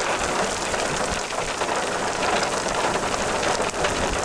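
Heavy rain from a tornadic thunderstorm, falling steadily with many small, sharp drop impacts.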